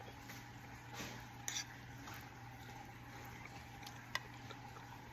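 Quiet room tone: a steady low hum with a few faint, short clicks.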